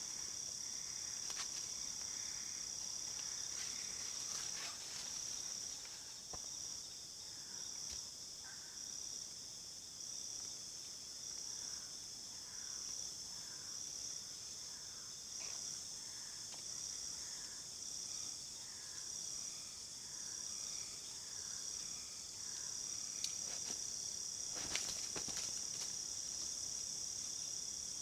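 Steady high-pitched insect trilling that pulses at an even beat, with faint repeated bird chirps and a few short knocks near the end.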